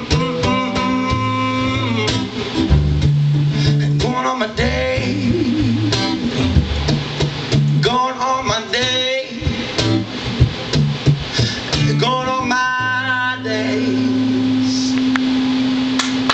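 Live guitar instrumental passage, strummed chords with bending melodic lead lines, settling about three seconds before the end onto a final chord left ringing.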